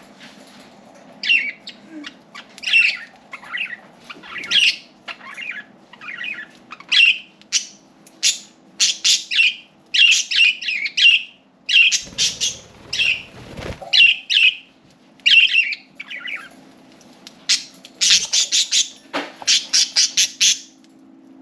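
Pet budgerigars chirping and squawking in a string of short, sharp calls, with a quick run of rapid calls near the end.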